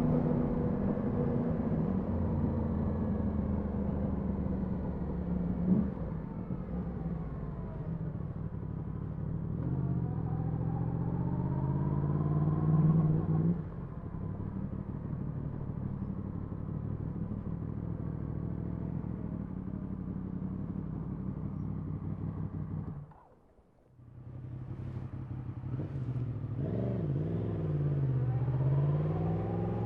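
Yamaha MT-10 SP motorcycle's crossplane inline-four engine running at low speed, its revs climbing for a few seconds and then dropping back. After a brief drop-out of the sound about two-thirds of the way through, the engine revs rise and fall again as the bike pulls away.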